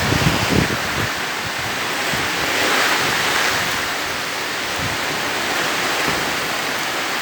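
Heavy rain pouring steadily in a storm, with gusts of wind buffeting the microphone in the first second.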